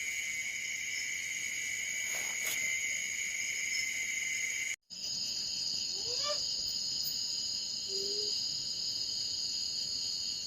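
Cicadas shrilling in a steady high-pitched chorus. The sound cuts out for an instant about halfway through and resumes at a slightly different pitch. A faint rising call about six seconds in and a short low note about two seconds later stand out over the chorus, taken by the listener on the spot as a strange sound.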